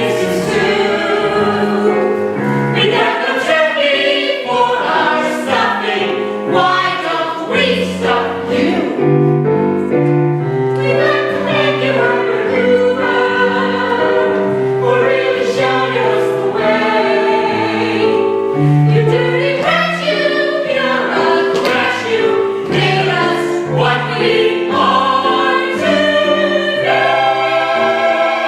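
A cast of voices singing together in a stage-musical chorus number, with instrumental accompaniment underneath.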